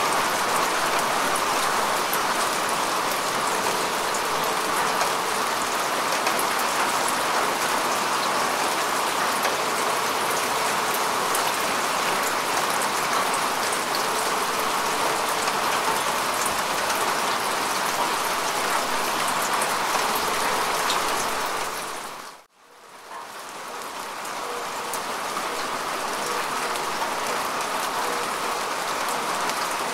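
Steady rain falling on grass and earth, a dense even patter of drops. About 22 seconds in it drops sharply to near silence for a moment, then fades back up over a couple of seconds.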